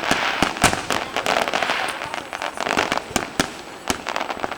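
Fireworks exploding in rapid volleys, many sharp bangs mixed with dense crackling.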